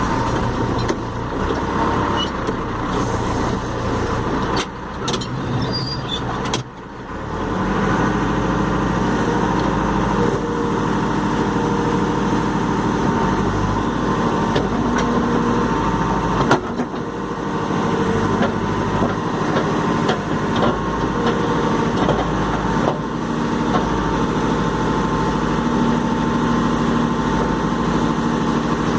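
Caterpillar 416E backhoe loader's diesel engine running. It dips briefly about five and seven seconds in, then settles to a steady, fuller run under working load from about eight seconds on, with a single sharp knock partway through.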